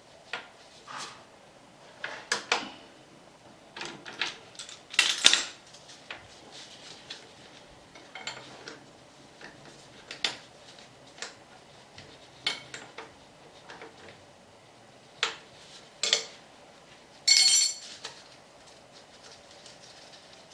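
Metal tools and parts clinking and knocking during brake caliper work, a dozen or so separate sharp clinks with pauses between them, and a longer metallic rattle near the end.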